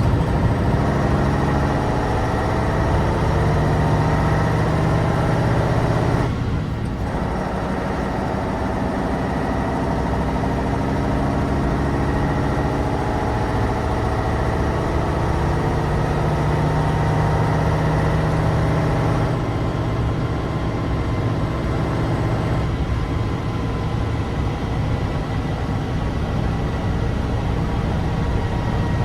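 Tatra 815 dump truck's air-cooled, naturally aspirated V10 engine running as the empty truck drives, its pitch drifting up and down, with a brief drop in the engine sound about six seconds in.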